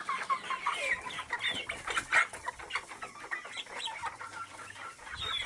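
Free-range local chickens clucking, many short calls overlapping one another, with one louder call about two seconds in.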